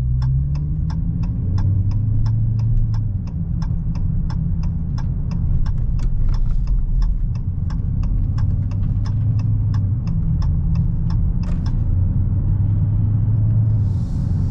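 Turn-signal indicator clicking about three times a second over the low, steady rumble of the Challenger Hellcat's supercharged 6.2-litre Hemi V8, heard from inside the cabin; the clicking stops about eleven and a half seconds in.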